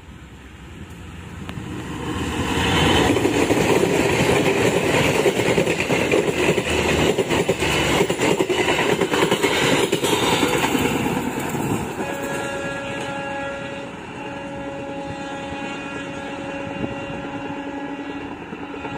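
KAI diesel-hauled passenger train passing at speed: a rising rumble from about two seconds in, then a loud clatter of coach wheels over the rails. From about twelve seconds in, as the train moves away, its horn sounds in long repeated blasts with short gaps.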